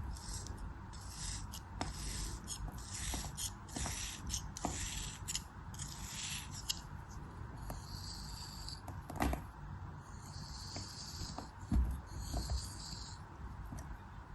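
A blade cutting and scraping through soft crafting material: a run of short crunchy strokes, then a few longer scraping strokes in the second half. A sharp knock comes about nine seconds in and a low thud near twelve seconds.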